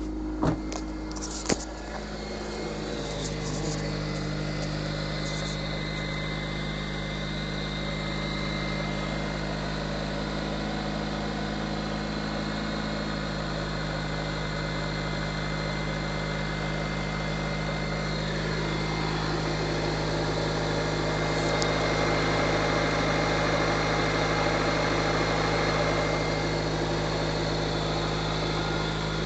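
Honda GSR B18C1 four-cylinder engine idling steadily while warming up from a dead cold start at about −28 °C, with no block heater. Two sharp knocks sound in the first two seconds, and the engine gets a little louder for a stretch past the middle.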